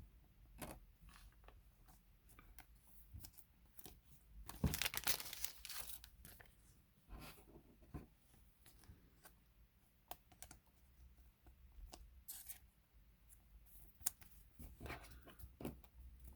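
Trading cards and plastic card sleeves being handled: faint rustles and small taps, with a louder rustle about five seconds in and another near the end.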